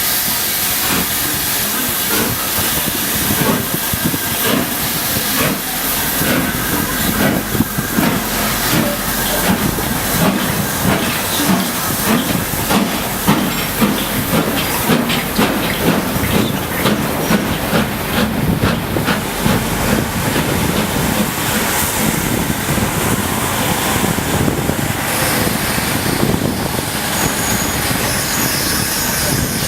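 Two LMS Stanier Class 5 4-6-0 steam locomotives pulling a train away from a station: a hiss of escaping steam under a regular beat of exhaust chuffs that quickens as they gather speed.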